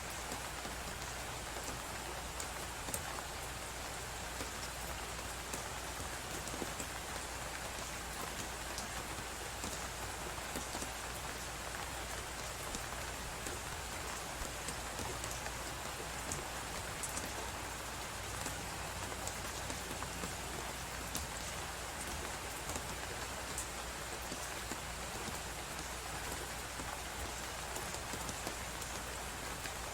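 Wood fire crackling with many small pops over the steady hiss of blizzard wind.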